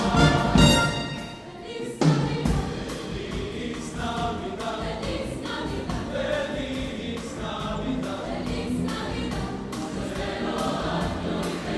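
A choir singing. One phrase fades about a second in, and the next comes in sharply at about two seconds.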